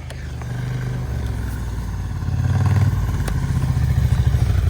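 Snowmobile engine running, its low pulsing exhaust note growing louder about two and a half seconds in as the throttle opens, with a few short knocks over it.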